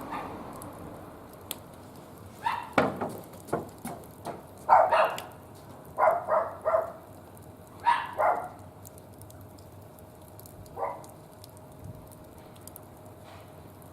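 A dog barking in several short clusters of quick barks, with a fire crackling faintly underneath.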